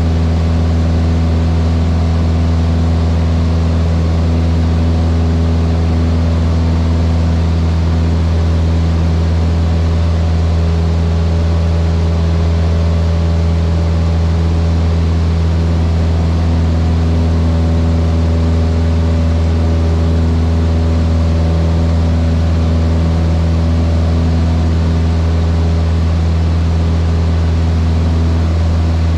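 Cessna 152's four-cylinder Lycoming engine and propeller running steadily at constant power, a low, even engine note that does not change.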